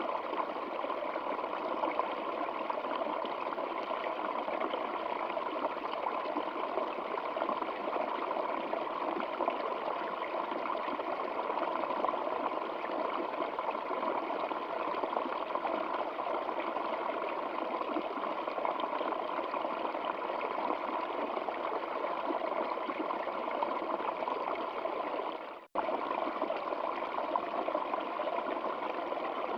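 Stream water flowing steadily with an even rushing and trickling, broken once near the end by a momentary dropout before it resumes.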